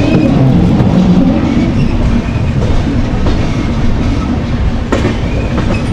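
Dehradun Janshatabdi Express passenger train running on the track, heard from on board: a steady rumble with wheels clattering over the rails, and one sharp click about five seconds in.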